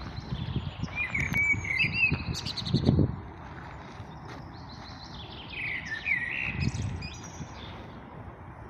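A songbird singing two phrases of whistled notes and trills, one in the first few seconds and another past the middle, with a few low thuds under the first phrase and one under the second.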